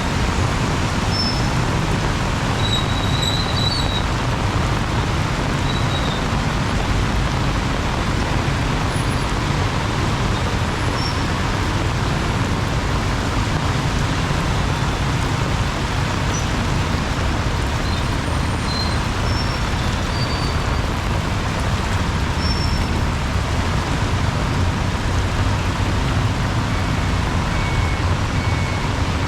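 Heavy rain falling, a steady dense hiss, mixed with the low rumble of road traffic.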